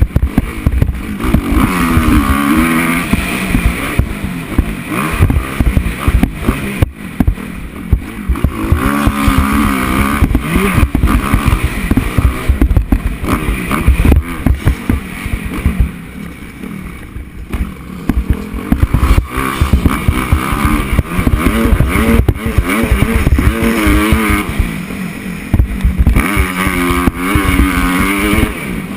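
Motocross bike engine being ridden hard, its pitch climbing and dropping again and again through the gears, with heavy wind buffeting and knocks from the onboard camera mount.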